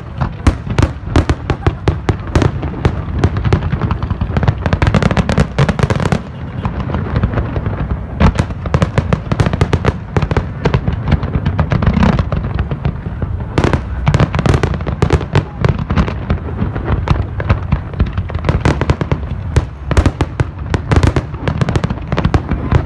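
Fireworks display: a dense, rapid barrage of loud bangs, many a second, with a few short lulls.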